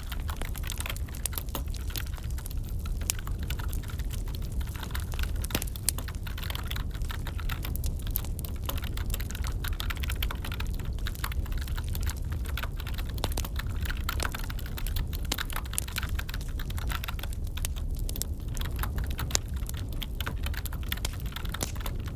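Computer keyboard typing, irregular key clicks, layered over a crackling wood fire, with a steady low rumble underneath.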